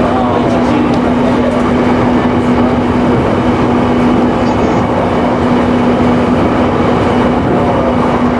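JR Nikkō Line electric local train running between stations, heard from inside the car: a steady rumble of wheels on rail with a constant hum.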